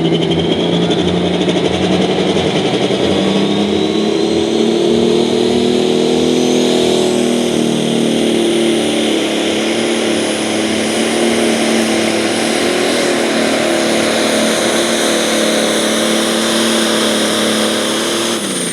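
John Deere 7520 pro stock pulling tractor's turbocharged diesel engine running flat out through a pull, with a high whine rising over the first several seconds. Just before the end the engine pitch falls away as the pull finishes.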